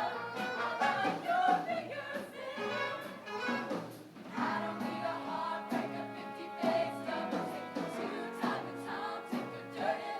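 High school show choir singing together in parts, with instrumental accompaniment underneath.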